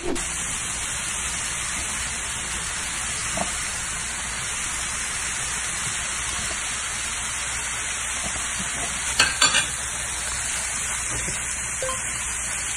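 Vegetables and nuts sizzling steadily in a frying pan as they are stirred. A quick cluster of sharp clicks comes about nine seconds in, the utensil knocking against the pan.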